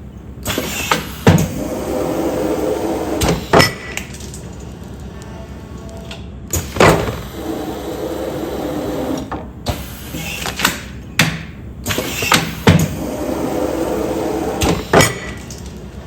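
Automatic food-container film sealing machine running back-to-back cycles, about three in all. Each cycle has sharp mechanical clacks and a stretch of steady hum between them.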